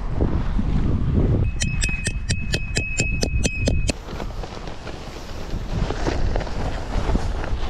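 Strong gusting wind buffeting the microphone with a deep rumble. In the middle, for about two seconds, comes a quick, even run of about a dozen clicks over a thin steady high tone.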